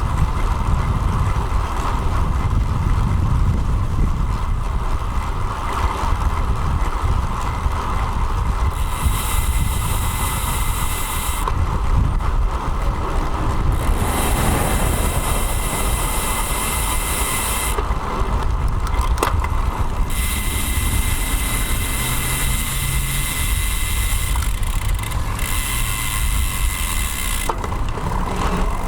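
Riding noise on a bicycle-mounted action camera: a steady low wind rumble with road noise. A high hiss cuts in and out abruptly several times.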